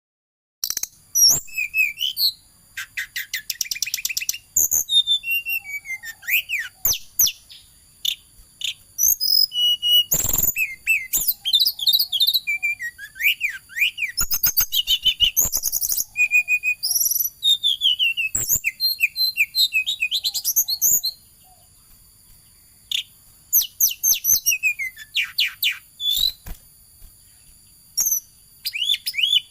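Tledekan songbird singing hard in a long, varied run of quick chirps, whistled notes that slide up and down, and fast rattling trills, with a pause of about two seconds past the two-thirds mark.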